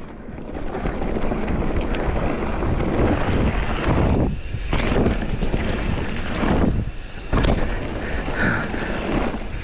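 Wind rushing over the microphone during a mountain-bike descent down a steep drop, a steady noise that builds over the first second and holds, with a couple of brief lulls.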